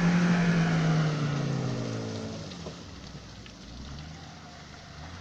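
Nissan car engine held at steady high revs under load, with a rushing hiss over it, then the revs drop away about two and a half seconds in and it settles to a low idle.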